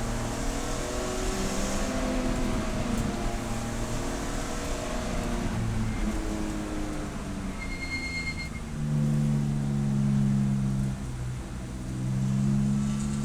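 Race car engine running under load, its pitch rising and falling through the first half, then louder and steadier for the last few seconds with a short dip in the middle of that stretch.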